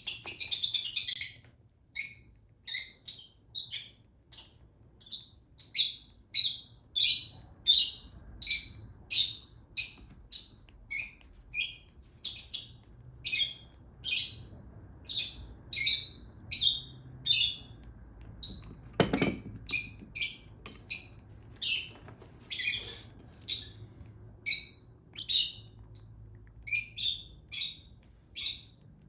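Baby Fischer's lovebird chick giving begging calls while being hand fed: a steady series of short, high chirps, a little under two a second. About two-thirds of the way through comes one louder sound that slides steeply down in pitch.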